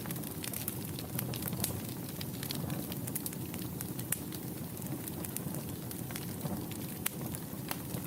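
Wood fire burning in a fireplace, with a steady low rumble of the flames and many sharp, irregular crackles and pops.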